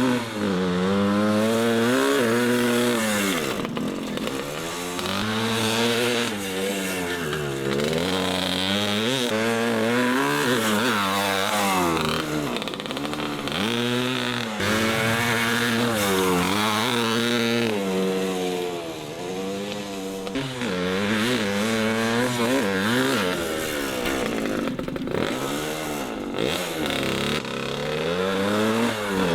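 Small dirt bike engine being revved, its pitch rising and falling about every two seconds. The engine has been running rough, spitting and sputtering and not reaching full revs, which the rider put down to a fouled spark plug.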